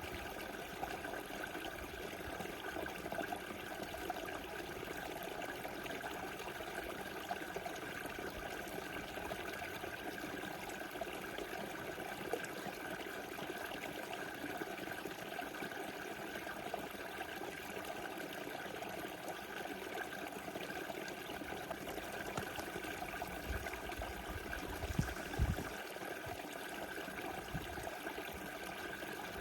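Small river flowing steadily, a continuous rushing and trickling of water. Near the end a few brief low thumps rise above it.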